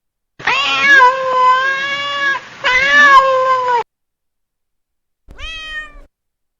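Domestic cat meowing: two long, drawn-out meows back to back, then a shorter separate meow near the end.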